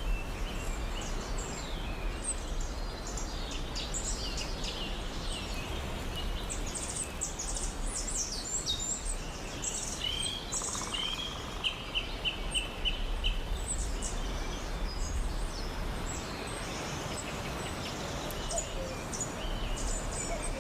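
Rainforest ambience: many birds chirping and calling over a steady background hiss, with a quick run of about half a dozen repeated notes a little past the middle.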